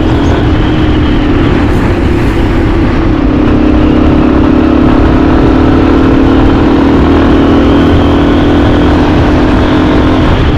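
Yamaha XT250's single-cylinder engine running at a steady cruising speed, heard from the bike over heavy wind rumble on the microphone. The engine note shifts slightly about three seconds in, then holds steady.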